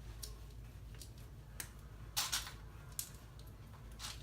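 LEGO pieces being handled and pressed together: scattered light plastic clicks, a couple of louder ones about two seconds in, over a steady low hum.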